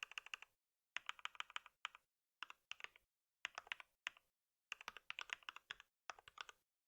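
Typing on a computer keyboard: quick runs of keystrokes in bursts of about half a second to a second, with short pauses between them. The typing stops shortly before the end.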